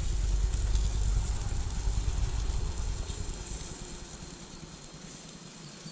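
A vehicle engine rumbling nearby, fading away about four seconds in. Under it, a faint steady hiss from the frying pan.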